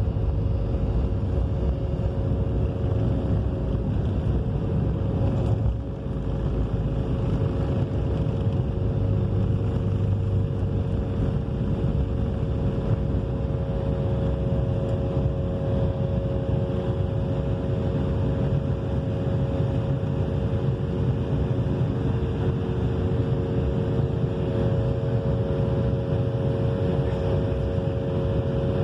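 Airliner's jet engines running at takeoff power: a loud, steady rumble with a few steady humming tones over it, dipping briefly about six seconds in.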